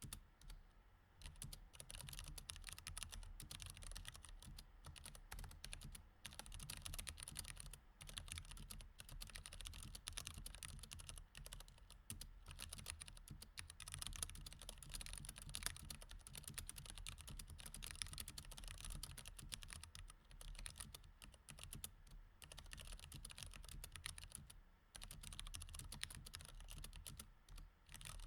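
Typing on a mechanical keyboard with Cherry MX Red switches: a fast, steady stream of key clicks, broken now and then by short pauses.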